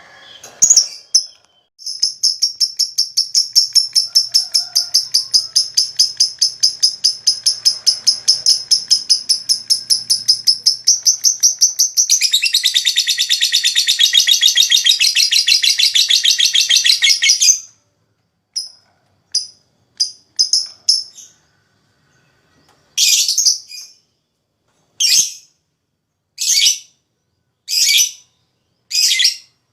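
Lovebird giving a long "ngekek" chatter: a fast, shrill pulsing trill lasting about sixteen seconds, turning harsher and denser for its last five seconds before it stops abruptly. It then gives short sharp chirps, one every second or so.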